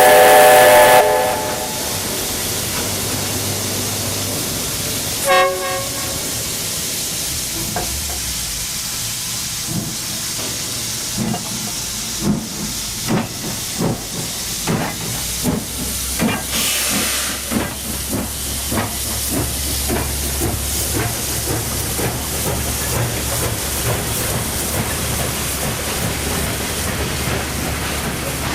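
Steam locomotive whistle: one loud blast in the first second and a short toot about five seconds in. Then steam hissing, a run of exhaust chuffs that quicken as the locomotive gets under way, and a steady rolling rumble.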